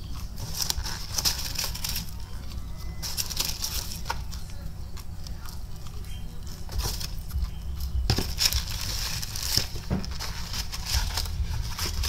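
Chewing crunchy Popeyes ghost pepper chicken tenders up close, the fried breading crunching in irregular bouts.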